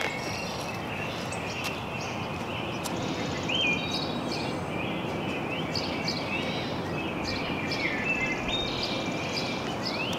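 Outdoor ambience: a steady background hiss with small birds chirping again and again, in short calls that rise or fall in pitch.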